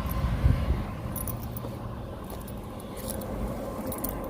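Double-stack freight train rolling past: a steady low rumble, broken several times by brief light metallic jingling and clinking.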